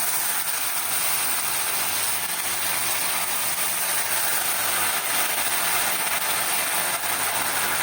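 Food sizzling in hot oil in a pan: a steady, even crackling hiss.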